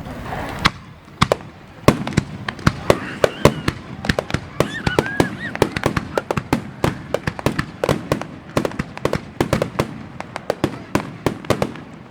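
Fireworks display: dozens of sharp cracks and bangs in quick, irregular succession, typical of crackling stars and bursting shells, with voices faint underneath.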